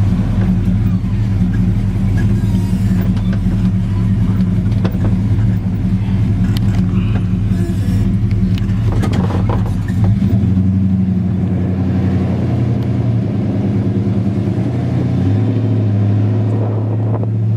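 A 1972 Chevrolet C10's 350 V8, fitted with headers and Flowmaster dual exhaust, running under way, heard from inside the cab. The engine note changes about ten seconds in and settles into a lower steady hum near the end as the truck slows.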